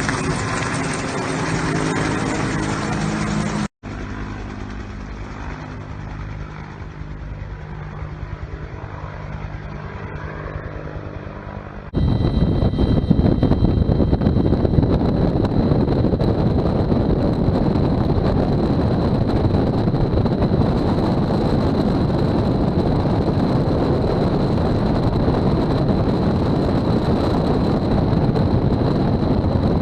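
Bell 210 (UH-1) helicopter's engine and rotor running, heard across spliced shots: a sudden cut about four seconds in to a quieter, steady hum, then a jump to much louder, dense rotor noise for the rest of the stretch.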